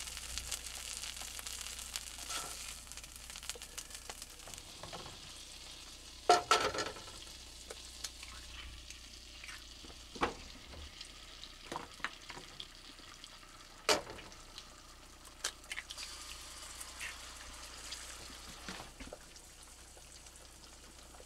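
Leftover mashed potatoes frying in a pan, a steady sizzle that slowly dies down. Scattered short knocks and scrapes of a utensil against the pan run through it, the loudest about six seconds in and again near fourteen seconds.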